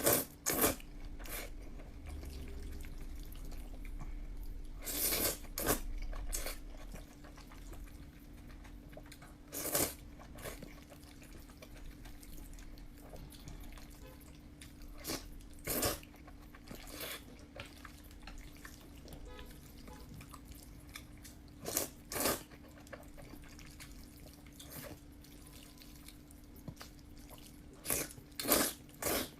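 Close-miked eating of noodles: sporadic wet slurps, chews and mouth clicks, grouped in clusters a few seconds apart, over a faint steady hum.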